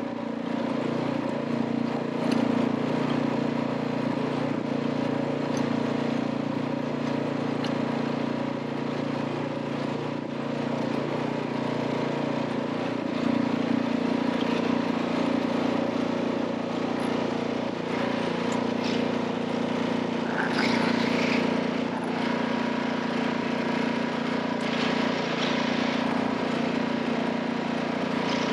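Vehicle engine running steadily, a continuous drone with a constant hum, with a few short noisier patches in the last third.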